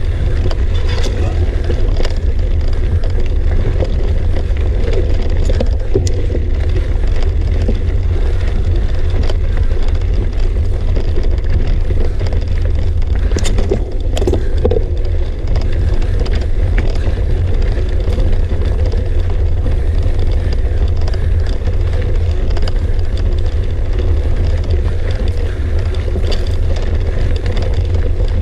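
Mountain bike being ridden up a rough technical trail: a steady low rumble of wind and vibration on the camera microphone, with scattered clicks and knocks from the bike over the rocky ground.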